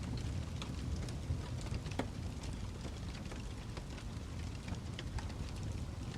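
Fireplace fire crackling: a steady low rumble with irregular sharp pops and snaps scattered throughout.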